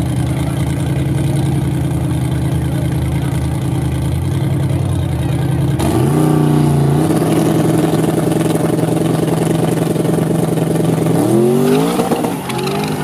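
Drag-racing donk's V8 engine idling with a choppy note. About six seconds in it is brought up to a higher steady rpm and held there. Near the end it revs up sharply as the car launches off the line.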